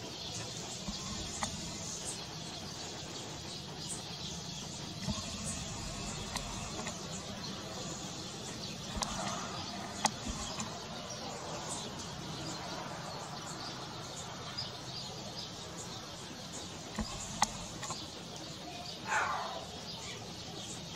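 Rural outdoor ambience: birds chirping over a steady faint hiss, with a short louder call about two seconds before the end.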